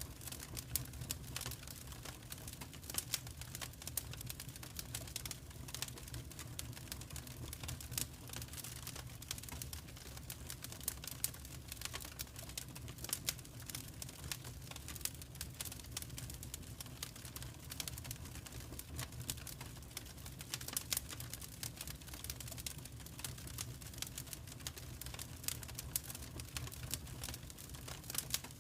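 Wood fire crackling in a fireplace: irregular sharp snaps and pops, several a second, over a steady low rumble.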